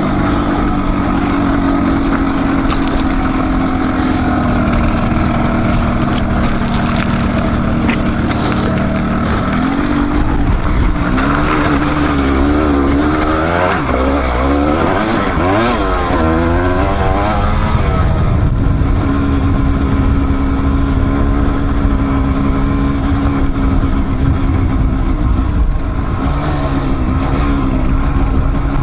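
Dual-sport motorcycle engine running: a steady note, then revving up and down over several seconds about a third of the way in, before settling back to a steady note.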